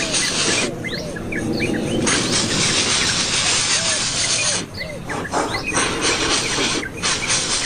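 Birds chirping in many short, repeated calls over a loud steady hiss that drops out for a moment several times.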